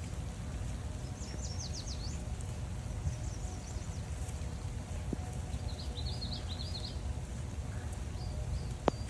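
Wild songbirds singing in short runs of quick, high, rapidly repeated notes, three bursts over a few seconds, above a steady low rumble. A single sharp click comes near the end.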